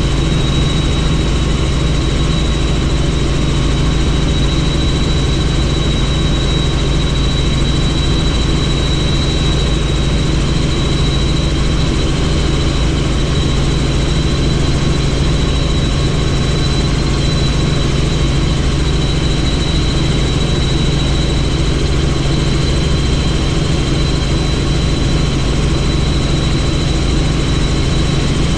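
Helicopter in steady flight, heard from on board: a constant drone of engine and rotor with a steady high whine above it, unchanging in pitch and level.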